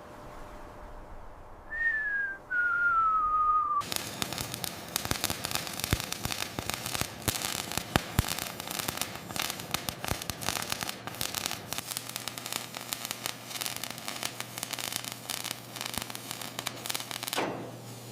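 A high whistle sliding down in pitch for about two seconds, then dense, continuous crackling that runs until near the end.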